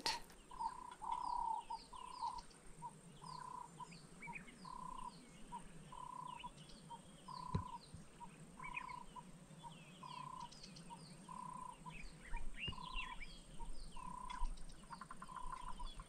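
Bird calls: one bird repeats a short note at the same pitch about every three-quarters of a second, over many small, quick, high chirps from other birds. A faint steady high tone runs underneath.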